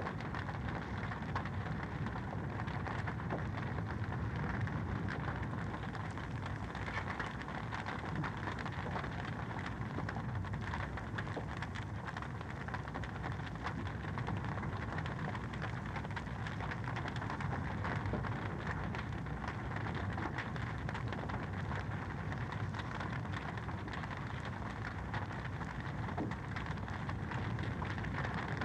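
Wood fire crackling in a fireplace: a steady rushing hiss dense with small crackles and pops.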